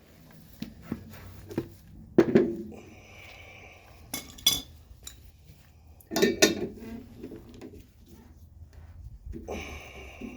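Metal strut and coil-spring parts and tools clanking as they are handled, with several sharp knocks and a short metallic ring after the first.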